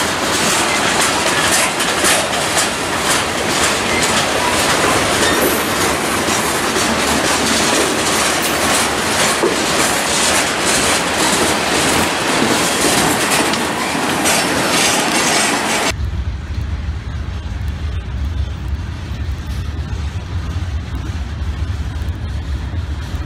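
A CSX freight train's cars rolling past close by: a loud, steady clatter of wheels over the rail joints. About two-thirds of the way through, the sound changes abruptly to a duller, deeper rumble as the train is heard from farther off.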